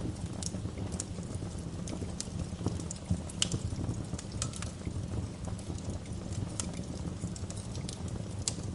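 Wood fire crackling in a fireplace: a steady low rumble of flames with irregular sharp pops and snaps, one louder pop about three and a half seconds in.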